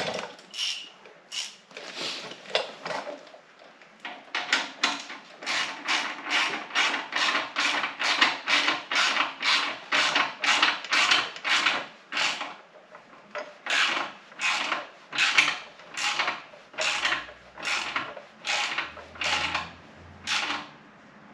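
Hand ratchet wrench working the exhaust fixings on a motorcycle tight, clicking in short even strokes of about two a second with a brief pause partway through.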